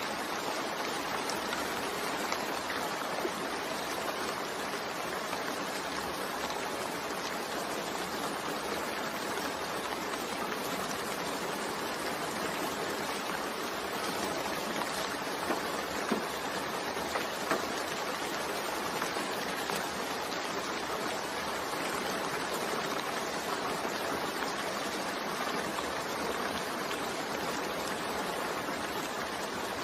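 Steady gentle rain, an even hiss of falling water with a few slightly louder drops about halfway through.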